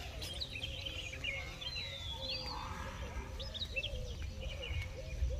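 Several small birds chirping and calling in short rising and falling notes, over a steady low rumble.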